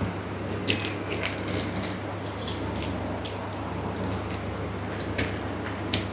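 Close-up eating sounds: wet chewing and mouth smacks with scattered short clicks, over a steady low hum.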